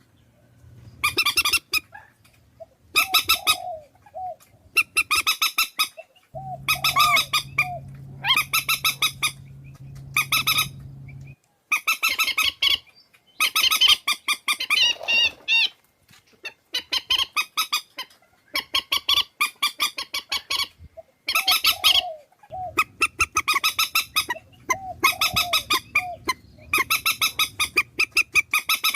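Swamphen calls: loud, honking calls with many overtones, repeated in quick runs with short gaps. The recording is a lure call for trapping swamphens. A steady low hum sits under the calls from about six to eleven seconds in.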